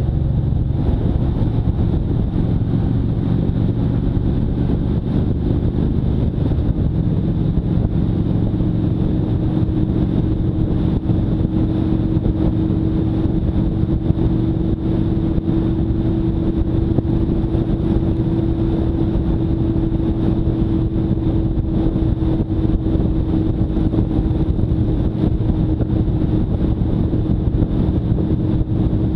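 Motorcycle engine running steadily under way. The engine note shifts slightly about six seconds in, and a steady higher tone joins it a couple of seconds later.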